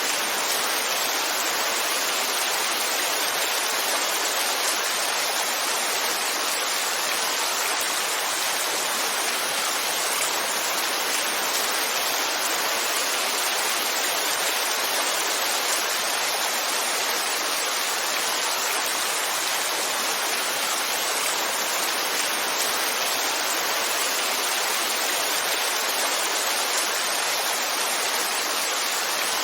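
Heavy rain falling in a steady, unbroken hiss with no individual drops standing out.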